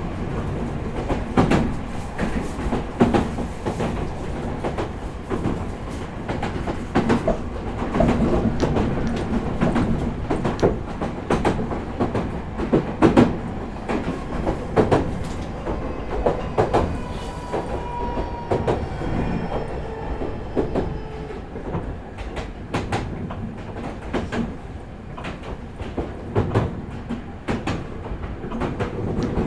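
Meitetsu 4000 series electric train running between stations, heard from inside the car: a steady rumble with wheels clicking over rail joints, and a faint whine that shifts in pitch around the middle.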